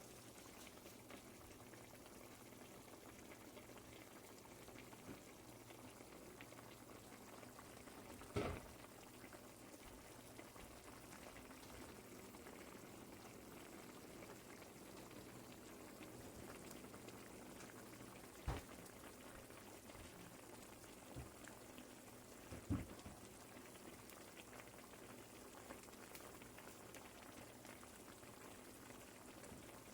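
Pot of chicken and vegetable soup simmering on the stove, a faint, steady bubbling. Three brief knocks sound at intervals.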